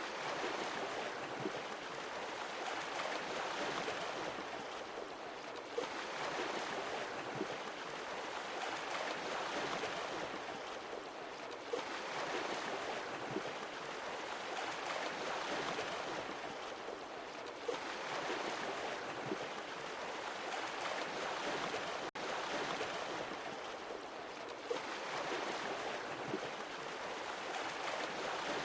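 Sea waves breaking and washing on a shore, a swell of surf about every six seconds that builds and then draws back. The sound cuts out for an instant about three-quarters of the way through.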